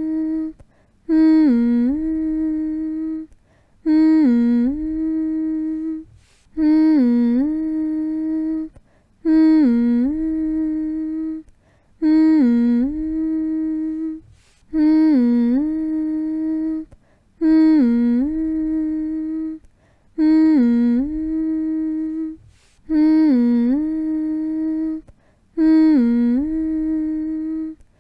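A voice humming one short phrase over and over, about every three seconds: each starts with a quick dip in pitch, comes back up to a single held note, and stops for a brief pause before the next.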